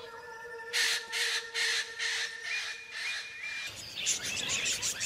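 Parrots squawking: a run of short, harsh calls, about two or three a second, starting about a second in, then a busier chatter of bird calls near the end.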